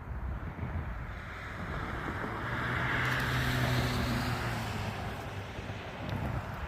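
A vehicle passing by: a steady low engine hum and tyre noise swell up over a couple of seconds and fade away, with wind rumbling on the microphone.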